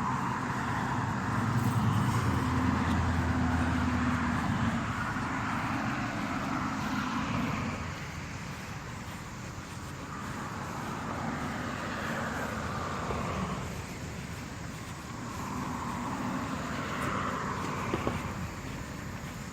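Cicada chorus droning in slow swells that rise and fade every few seconds. A motor vehicle engine hums underneath for the first eight seconds or so, then fades.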